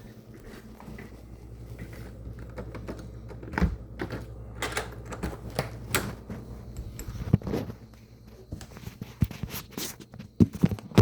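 Irregular clicks and taps of unknown origin, a few louder sharp ones near the end, over a steady low hum.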